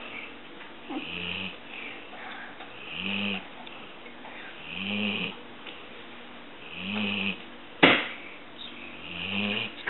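Yellow Labrador snoring in her sleep, a pitched snore with a hiss on top about every two seconds. A single sharp click cuts in near the end, louder than the snores.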